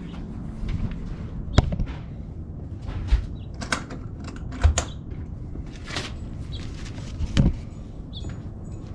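Masterbuilt smoker's door being shut and latched: a handful of separate knocks and clicks spread over several seconds, over a steady background hiss.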